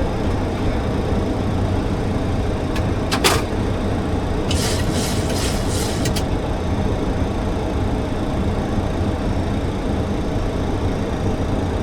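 Steady cockpit noise of a Boeing 737-800 on final approach with the landing gear down. Two sharp clicks come about three seconds in, and a brief run of high crackling hiss follows around five seconds in.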